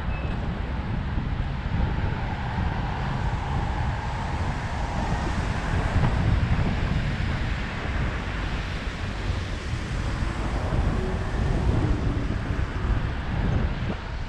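Wind buffeting the microphone of a moving bike rider: a steady low rumble with a hiss over it.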